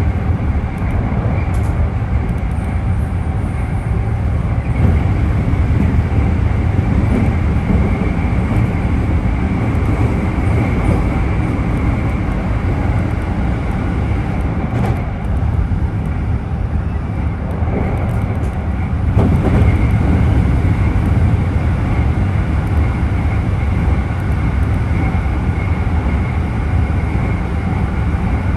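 Traction motor of Keikyu car DeHa 1097 heard from inside the running train: a heavy low rumble from under the floor with a steady high whine. This is the abnormal motor noise that the rider puts down either to a loud Mitsubishi motor or to a deteriorating motor.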